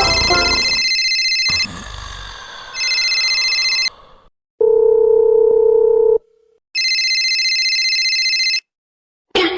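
Telephone ringing as a sound effect: bursts of steady electronic ringing, three times, with a plain steady tone like a dial tone about five seconds in.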